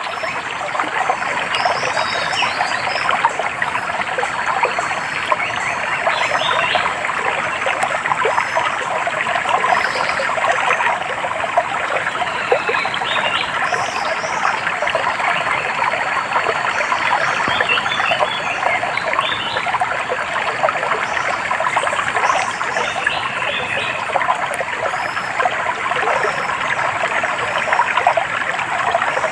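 Stream water trickling and babbling steadily, with scattered short, high bird chirps over the water noise.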